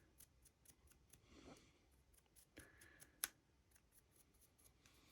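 Faint scratchy strokes of a dry brush across a 3D-printed model's raised details, with small clicks and one sharper click about three seconds in.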